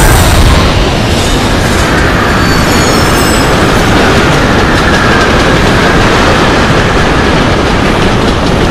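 Heavy, steady rumble of a long train running past at speed, wheels clattering on the rails, with thin high wheel squeals about two to three seconds in.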